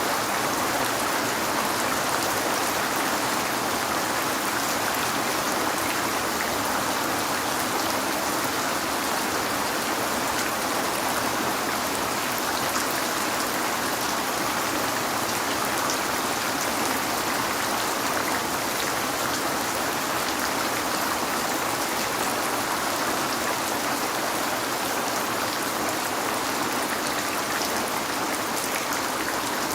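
Steady rain falling without a break, with a dense hiss and small drop ticks, as of rain on a window.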